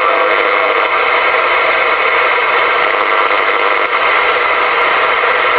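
Steady static hiss from a CB radio receiver with the squelch open, a weak distant station barely there under the noise.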